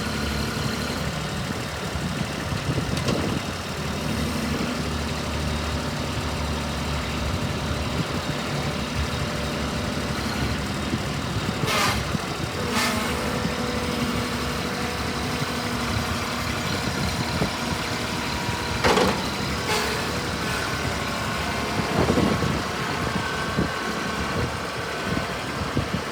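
Kubota B26 compact tractor's diesel engine running steadily, with a few sharp knocks about midway and toward the end.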